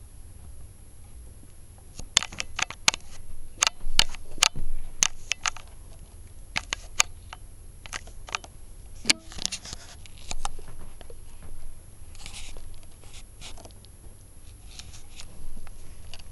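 Irregular sharp clicks, taps and scratches, densest in the first half of the stretch, with a brief hiss about twelve seconds in.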